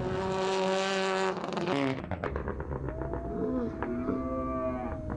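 Rally car engine held at steady high revs for about two seconds, then cutting off abruptly. A jumble of voices follows, with a long steady high tone.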